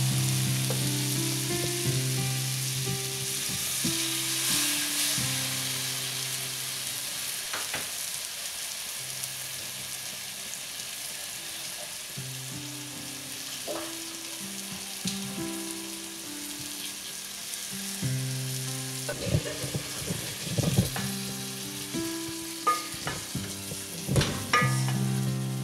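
Beef, tomatoes and peppers in tomato sauce sizzling steadily in an aluminium pot. In the last several seconds a wooden spoon stirs the stew, knocking and scraping against the pot.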